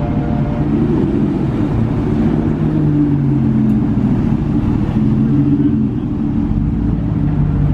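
Supercar engine running steadily at low revs, a low even drone with no big rev.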